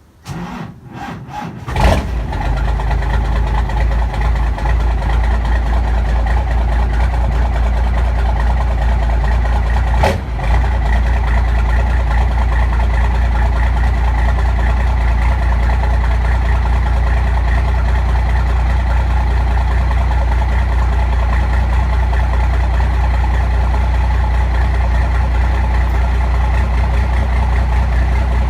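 A 1991 Dodge W250's Cummins 5.9-litre inline-six turbodiesel cranks briefly in the cold, catches about two seconds in, and settles into a steady low idle. One sharp knock about ten seconds in. At 20 degrees it runs a bit rough on this cold start.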